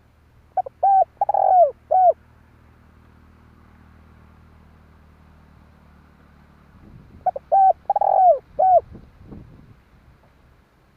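Spotted dove cooing: two phrases of four quick notes each, the third note the longest and loudest, about seven seconds apart. A decoy dove's call of the kind used to lure wild doves.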